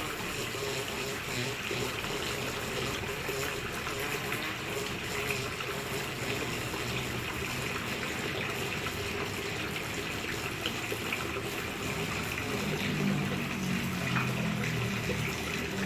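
A steady rushing noise like running water, with a low hum joining near the end.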